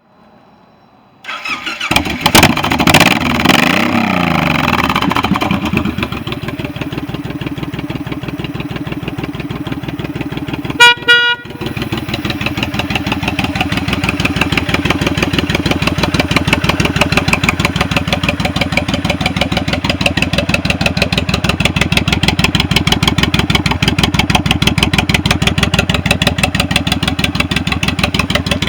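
2006 Honda VTX 1800C's V-twin engine starting, revved a few times, then idling with an even, loping pulse. About eleven seconds in, a horn sounds twice briefly over the idle.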